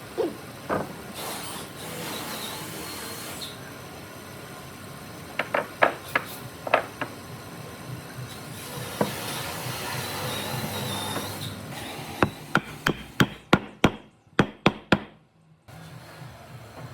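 Hammer blows on wood: scattered strikes, then a quick run of about eight near the end. Two stretches of higher-pitched hiss come between the blows.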